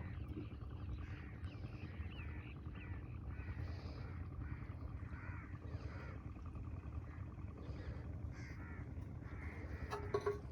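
Crows cawing repeatedly, many short calls one after another, over a low steady rumble.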